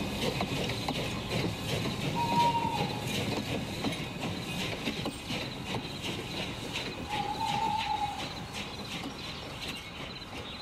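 Train rolling along the rails, its wheels clacking rhythmically over rail joints, with a short high wheel squeal twice.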